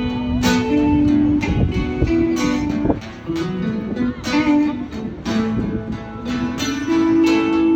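Guitar playing an instrumental break in a slow country ballad, plucked and strummed notes ringing out between sung lines.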